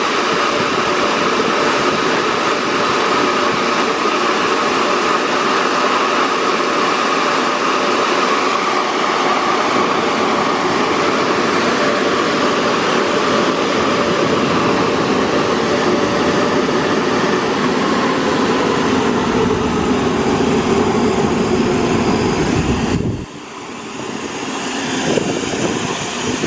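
Car wash dryer blowers running loud and steady, a rushing air noise with a steady whine, cutting off suddenly near the end.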